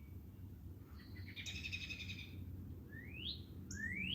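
Backyard songbirds singing: a rapid trill about a second in, then two rising whistled notes near the end.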